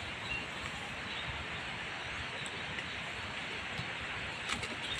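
Steady hiss of light rain falling on forest leaves, with a few faint ticks near the end.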